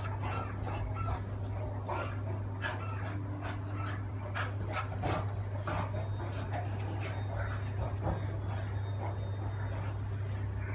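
Great Dane and beagle tussling: dog panting and brief whimpers among many short clicks and knocks, over a steady low hum.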